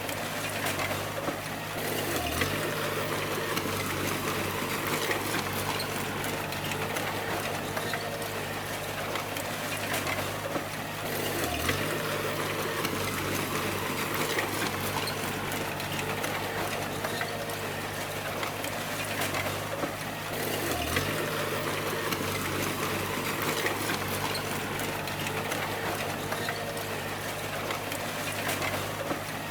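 Bulldozer's diesel engine running steadily under work, its note dipping briefly about every nine seconds as it takes load, over a rough grinding and rushing noise.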